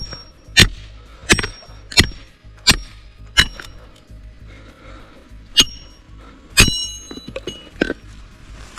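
A series of hard strikes with a metallic ring, about one and a half a second, then a short pause and three more spaced blows. The one about two thirds of the way through rings on longest.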